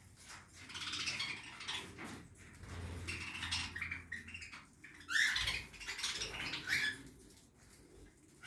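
Budgerigars chattering and chirping in quick bursts, loudest about five seconds in.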